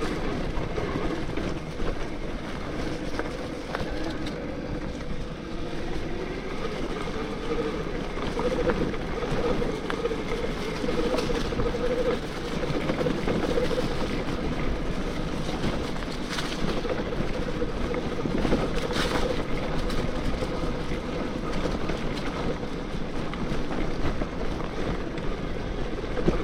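Bafang BBSHD mid-drive e-bike motor whining under power, its pitch wavering with speed, over steady tyre and wind noise while riding a trail.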